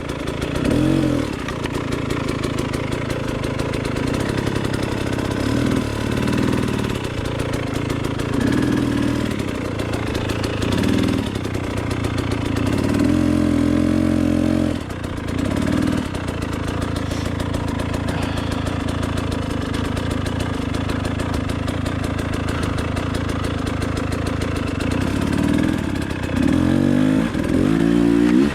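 Dirt bike engine on a hard-enduro trail, blipped in repeated short throttle bursts with low, steady running between, as the rider works the bike over rocks.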